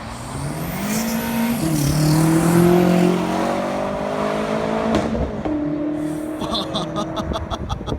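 BMW M6 Gran Coupe's twin-turbo V8, straight-piped, pulling hard: the pitch rises, jumps through a gear change about a second and a half in and keeps climbing. The throttle lifts about five seconds in, leaving a steady drone, and a rapid crackling follows near the end.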